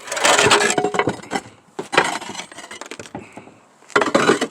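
Roof tiles clinking and clattering against one another as they are lifted and handled, in several bursts of sharp knocks.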